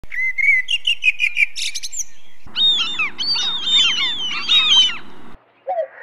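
Birdsong in two edited parts: first a single bird repeating a short note about five times a second, then, after a brief break, a dense chorus of many birds chirping together that cuts off suddenly. A lower, drawn-out note starts just before the end.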